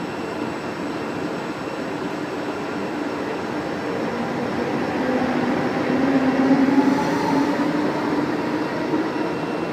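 Train at a station platform: a steady rumble with a hum that grows louder about five seconds in.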